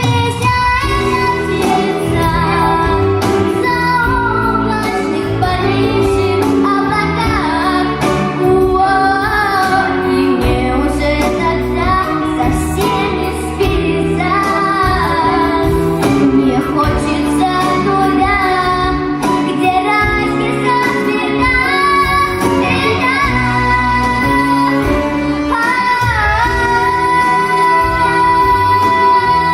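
A young girl singing a Russian song with vibrato over an instrumental backing track.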